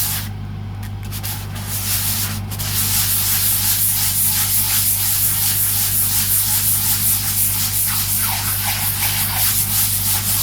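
Hand sanding of a grain-filled guitar body with sandpaper on a sponge or wood block: quick back-and-forth rasping strokes. The rubbing eases briefly near the start, then runs on steadily over a low steady hum.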